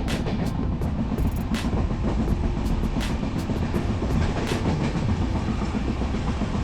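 Passenger train running along the track: a steady, loud rumble of wheels on rail with irregular sharp clicks.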